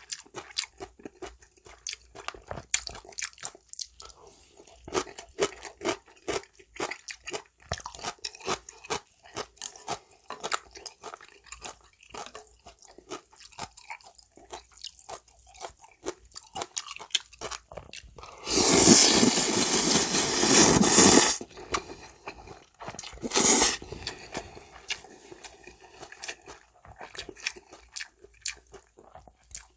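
Close-miked eating of janchi guksu noodle soup: steady chewing with many small crisp crunches, then a long, loud slurp of about three seconds two-thirds of the way in, and a shorter slurp a couple of seconds later.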